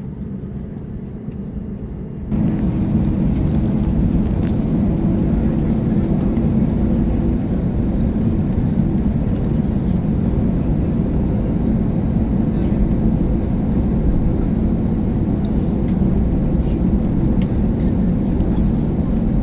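Steady jet engine and cabin noise inside an Airbus A321neo as it taxis, a low rumble with a steady hum. The noise jumps abruptly louder about two seconds in and then holds steady.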